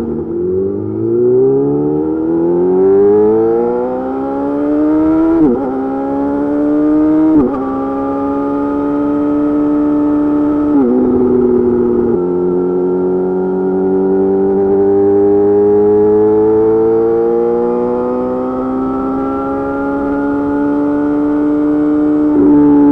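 Yamaha YZF-R6 inline-four through an M4 GP slip-on exhaust, accelerating with the engine note rising steeply, then two quick upshifts about five and seven seconds in. After a couple more shifts it runs at steady, slowly climbing revs, with another shift near the end.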